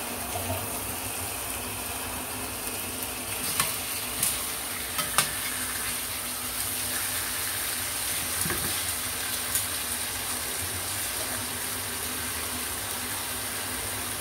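Flour-dusted chicken thighs frying in oil in a pan on medium-high heat: a steady sizzle, with a few light clicks in the first half.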